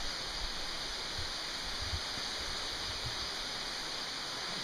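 Steady hiss of falling water from a small waterfall running low in the dry season, with a few soft low thumps.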